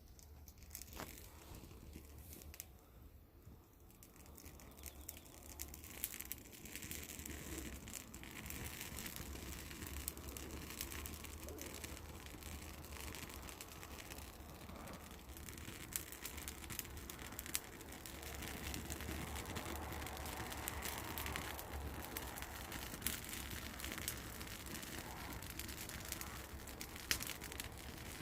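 Wood fire crackling, with scattered sharp pops and snaps over a low steady rumble; it grows louder and busier about four seconds in.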